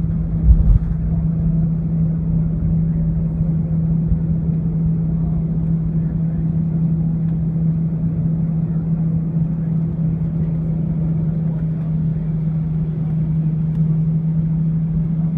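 Airliner cabin noise on the ground just after landing: a steady jet-engine hum with a low rumble underneath.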